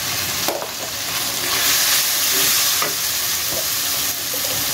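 Tomato, onion and spice masala sizzling in ghee in a steel karahi, stirred with a wooden spatula that scrapes and knocks against the pan a few times.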